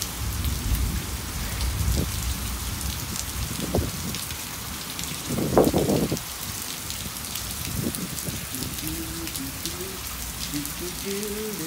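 Steady rain falling during a thunderstorm, with low rumbling in the first couple of seconds and a short, louder burst about five and a half seconds in.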